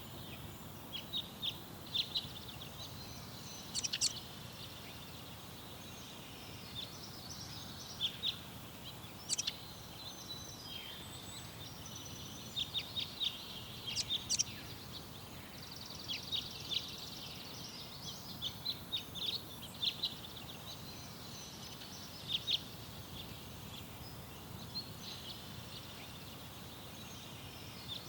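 Garden birds chirping and twittering: many short, high calls and a few quick trills scattered throughout, over a steady low background noise.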